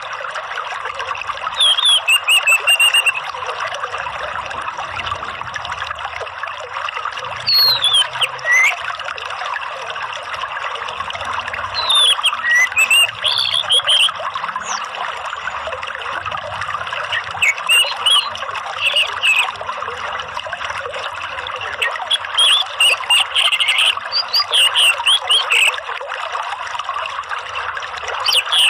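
Steady trickling, running water, with short clusters of quick, sweeping bird calls and chirps breaking in every few seconds.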